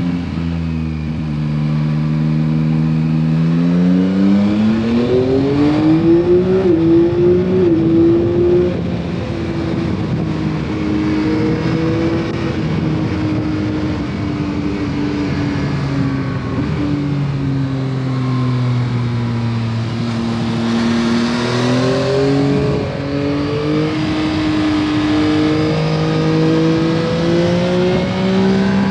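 Stock exhaust of a 2021 Yamaha MT-09 SP's three-cylinder engine on the road. It pulls up through the revs over the first few seconds, holds a steady cruise, eases off to lower revs in the middle, then climbs again in the last third, with wind noise along with it.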